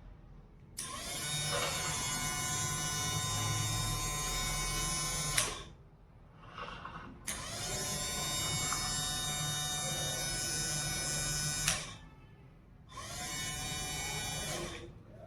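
Small DC motor of a homemade mini drilling machine running with a high whine, switched on and off three times: two runs of about four and a half seconds and a shorter one near the end, each spinning up and cutting off sharply.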